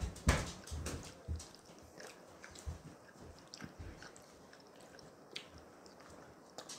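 Close-up eating sounds: chewing and biting into a hamburger, with scattered soft clicks and mouth noises. A louder knock comes just after the start.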